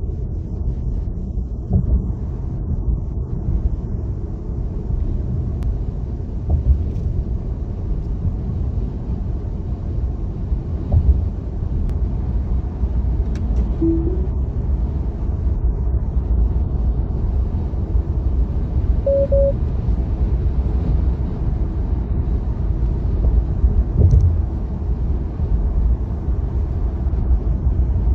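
Tesla electric car cruising on a highway: a steady low rumble of road and tyre noise, with no engine sound, broken by a few thumps and two short beeps.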